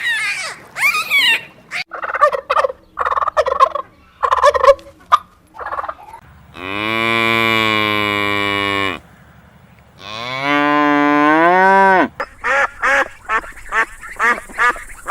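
Short honking calls of geese, then a cow mooing twice in long calls, the second rising in pitch near its end, followed by a quick run of honks.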